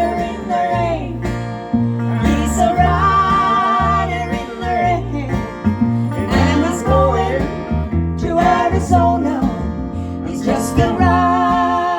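Live acoustic country band playing an instrumental break: acoustic guitars and banjo over a double bass line, with long held melody notes in phrases of a couple of seconds.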